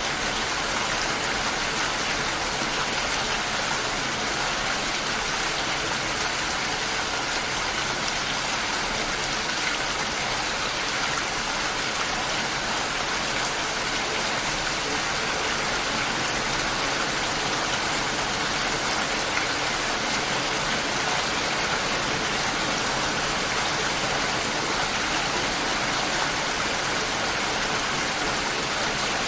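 Steady light rain falling, an even hiss of drops with no thunder or music.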